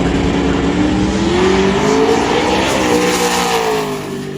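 Drag race car engine running hard, loud; its pitch climbs about two seconds in, eases a little, and the sound fades near the end.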